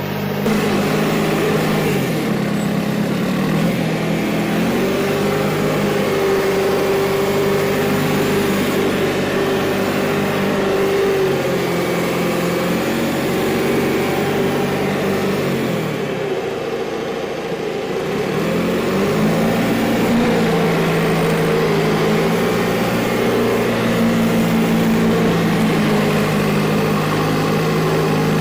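Diesel engine of a John Deere 410 loader backhoe running, its revs rising and falling several times: the pitch drops about two seconds in, sinks lowest a little past the middle, then picks back up and holds.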